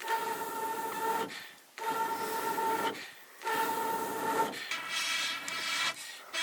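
Repeated long scraping or rubbing strokes, about one every second and a half, each carrying a steady ringing tone.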